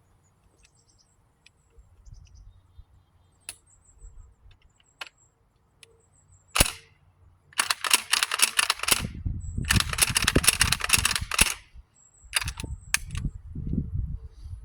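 A single 12-gauge shotgun shot about six and a half seconds in, followed by several seconds of loud, crackling noise in three bursts.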